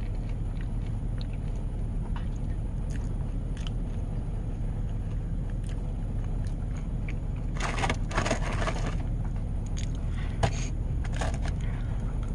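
Close chewing and crunching of crisp fried potatoes, densest about eight seconds in with a few more crunches near the end, over a steady low rumble in a vehicle cabin.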